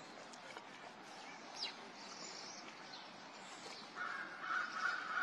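Outdoor birds calling: a few short falling chirps, then a louder run of repeated calls starting about four seconds in.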